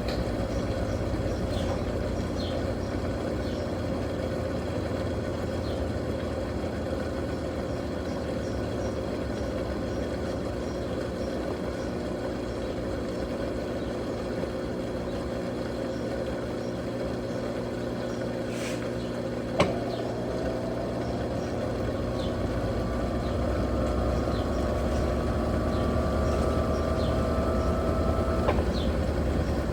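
Electrolux Turbo Capacidade Premium 15 kg (LTP15) top-loading washing machine running with a steady motor hum. About two-thirds of the way through there is a sharp click, then a whine that slowly rises in pitch and stops with another click near the end.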